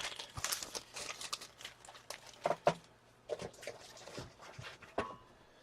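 Hockey card packs and cards being handled: crinkling of pack wrappers and cards flicking and sliding, a string of irregular rustles and small clicks.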